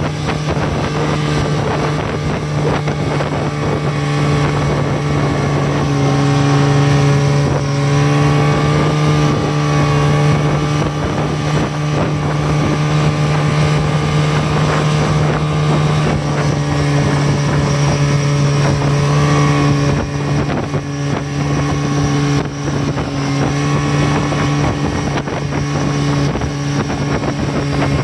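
Buran snowmobile engine running steadily and loud, its note rising a little and easing back a couple of times.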